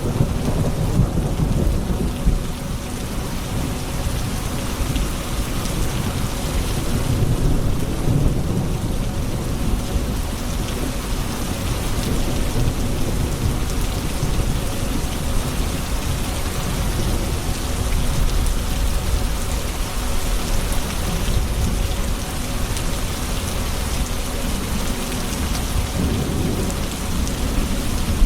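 Steady rain falling during a thunderstorm, with low rolling thunder rumbling under it, heaviest near the start and again about eight seconds in.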